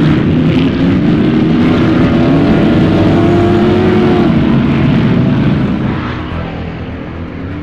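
Off-road race car engines running hard, their pitch rising and falling with the throttle. The sound is loud at first and drops back about six seconds in.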